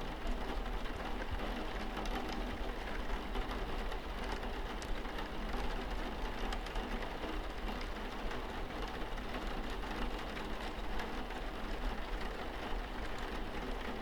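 Steady rain on a window pane: an even hiss dotted with many small drop ticks.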